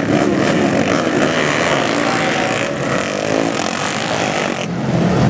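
Flat track racing motorcycle engines running loud and continuously, with a slight dip in level in the middle.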